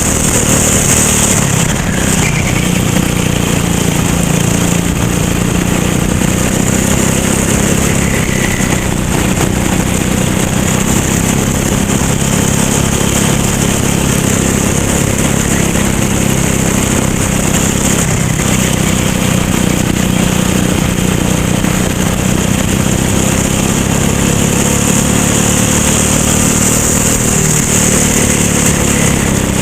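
Racing kart engine running continuously under race load, its pitch drifting up and down with the throttle, over a steady rush of wind noise.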